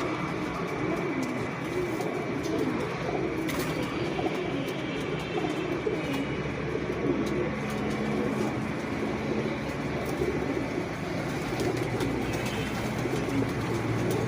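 Pigeons cooing over and over in low, wavering calls, over a steady background hum.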